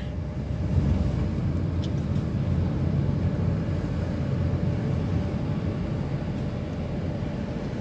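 Steady low rumble of a vehicle's engine and tyres while driving.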